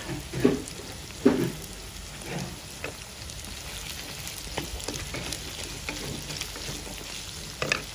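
Vegetables sizzling in hot oil in a stone-coated wok as they are stirred with a wooden spatula, with scattered scrapes and knocks of the spatula against the pan.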